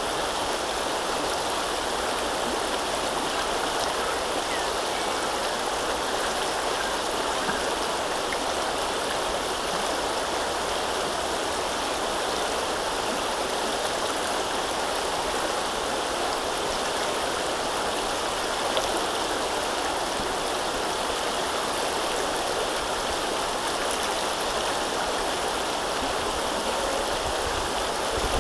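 River water rushing and gurgling in a steady, unbroken flow.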